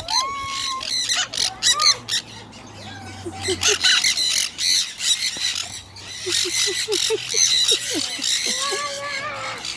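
A flock of parrots screeching and squawking together in a harsh, overlapping chorus, with a run of short quick chirps and a drawn-out whistled call near the end.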